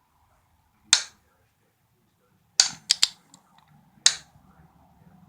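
Five sharp metallic clicks from a wrench and angle gauge as a torque-to-yield engine bolt is turned a further 60 degrees, three of them close together near the middle.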